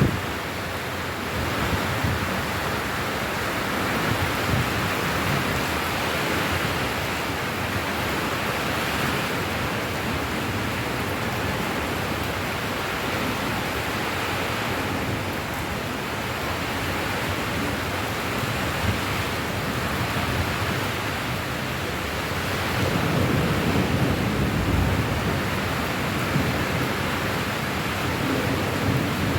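Steady heavy rain falling, a dense even hiss, with a low rumble swelling up briefly about four-fifths of the way through.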